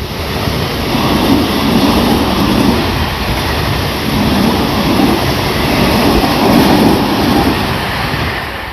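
Tobu Tojo Line electric train passing over a level crossing: a loud, steady rumble of wheels on rail that fades near the end.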